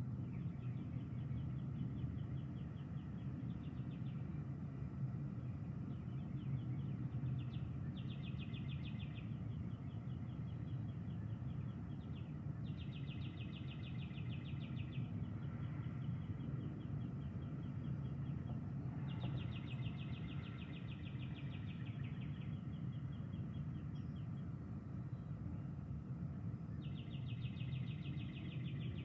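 Repeated trilled animal calls, each a fast pulsed trill lasting one to two seconds and coming every few seconds, over a steady low outdoor background noise.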